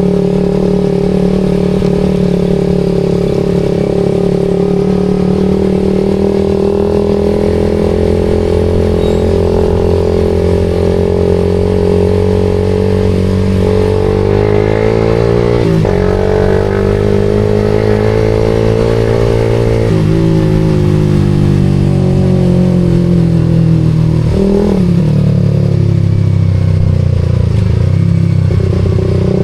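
Suzuki GSX-R150's single-cylinder engine through a SARP aftermarket exhaust, cruising steadily, then revving up through a quick upshift about halfway in. The engine pitch then falls off as the bike slows and settles back to a steady cruise near the end.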